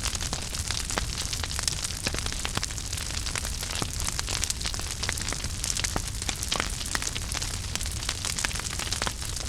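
Wood fire burning in a fireplace: a steady hiss and low rumble with frequent irregular crackles and pops.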